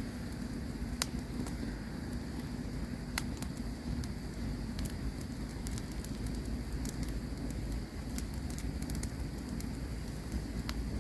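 Campfire crackling: irregular sharp pops and snaps, a few every second, over a low steady rumble of burning.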